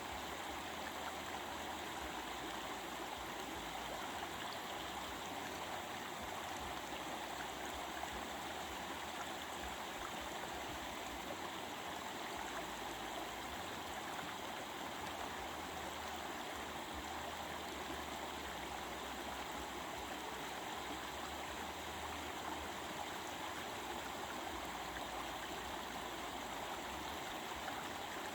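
Stream of water flowing steadily over rocks, an even rushing babble with some gurgling.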